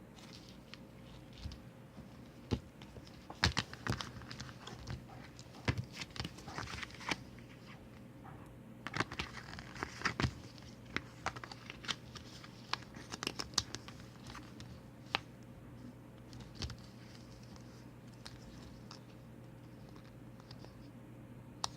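Paper and a clear plastic phone case being handled: scattered crinkles, rustles and small taps over a faint steady hum.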